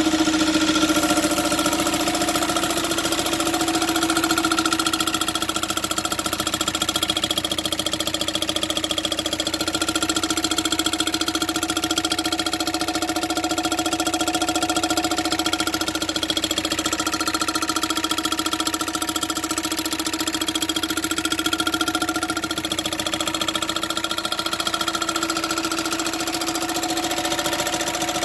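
2005 Volkswagen Passat TDI's four-cylinder turbodiesel running steadily. It makes a fast, even clatter with steady whining tones over it, the terrible noise the car is making.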